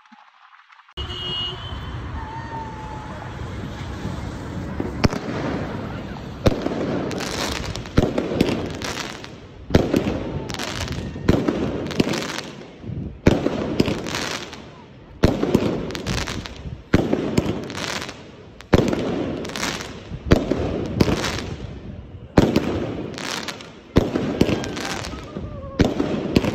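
A long series of loud bangs, about one every second or so, each fading over a second, over a steady noisy background.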